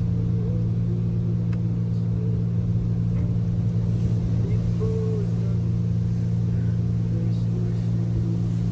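Steady low hum of a Mark VII ChoiceWash XT automatic car wash at work during its foam stage, heard from inside the car's cabin. Faint short wavering tones sound above the hum.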